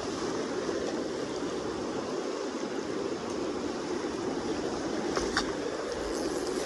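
Fast-flowing Kenai River water rushing steadily, with a couple of faint ticks about five seconds in.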